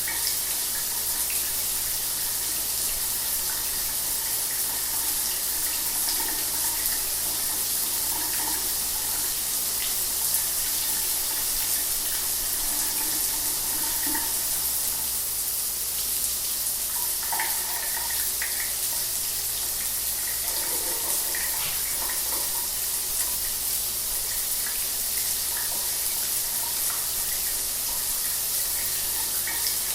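Shower running steadily: an even hiss of water spray, with small splashes and patters through it.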